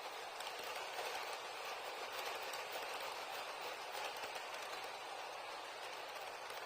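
HO gauge model freight train running along the track: a steady rolling hiss of the wheels on the rails that swells a little in the middle and eases toward the end.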